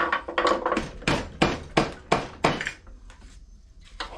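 A run of sharp metal knocks and clicks, about three a second, dying away in the last second or so: a flat screwdriver working a tight-fitting part into place on a small lawn mower engine's carburetor.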